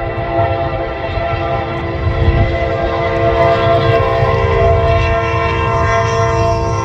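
Locomotive horn held in one long chord over the low rumble of the train, growing gradually louder as it approaches.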